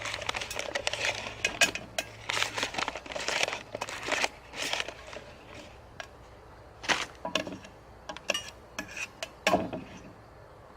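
Microwave popcorn bag crinkling and rustling as it is handled, in dense bursts for the first few seconds, then a few sharper crinkles and clicks near the end.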